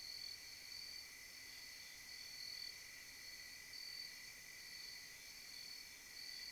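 Crickets trilling steadily, two overlapping trills at different pitches, the higher one swelling and fading about once a second.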